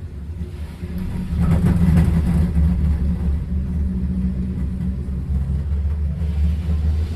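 Steady low mechanical rumble and hum of a cable car gondola running along its cable, growing louder about a second in.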